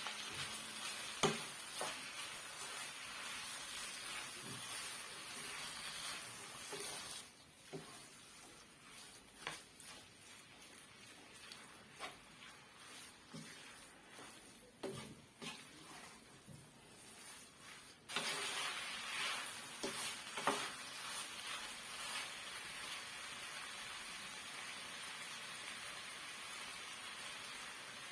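Samosa filling frying in oil in a pan, sizzling steadily, with the irregular clicks and scrapes of a spoon stirring it. The sizzle drops much lower for a stretch in the middle and comes back suddenly.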